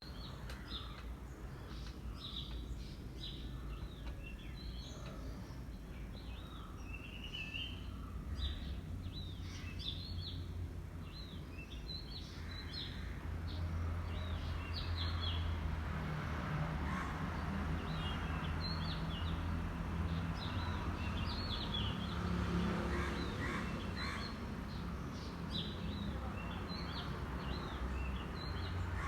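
Small birds chirping and singing, many short calls overlapping, over a steady low rumble that grows louder about halfway through.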